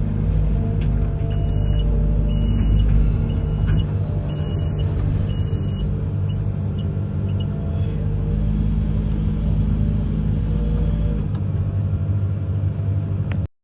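Amphibious excavator's diesel engine running steadily, with a run of short high beeps about once a second for several seconds. The sound cuts off abruptly near the end.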